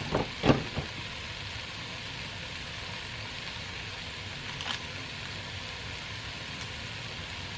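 Rice frying in a hot pan, a steady sizzle, with a few sharp knocks of a utensil against the pan in the first second and one fainter one near the middle.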